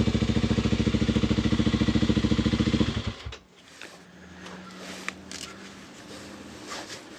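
Kawasaki KLX300's single-cylinder four-stroke engine idling with an even, rapid thump, then shut off about three seconds in, stopping abruptly. Afterward only faint clicks and a low steady hum remain.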